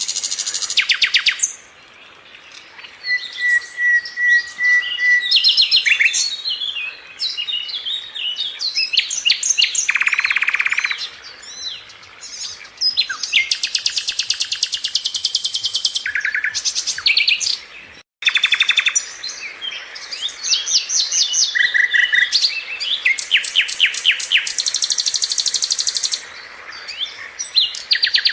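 Sikatan londo, a flycatcher, singing a loud, varied song of rapid trills and chattering phrases mixed with short held whistles. There is a brief break about 18 seconds in.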